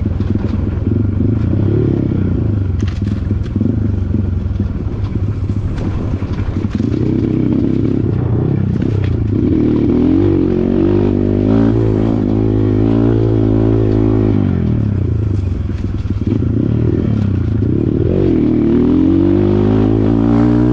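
Kawasaki KLX140 dirt bike's single-cylinder four-stroke engine running under load, its note rising and falling again and again as the throttle opens and closes, with rattling and scraping on rough ground.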